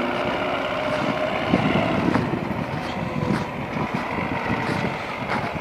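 YuMZ tractor's diesel engine running as it skids logs through snow, a steady engine note at first that turns rougher and noisier after about a second and a half, with a few sharp clicks.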